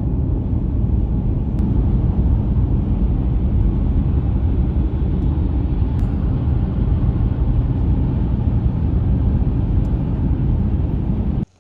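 Loud, steady low rumbling noise that cuts off suddenly near the end.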